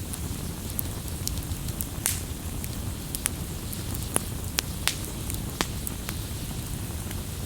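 Campfire crackling: scattered sharp pops and snaps over a steady low rumble, with a few louder pops in the middle.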